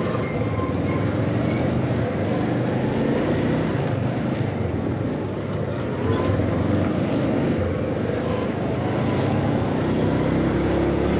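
Motorcycle engine running steadily while riding, its pitch rising and falling slightly.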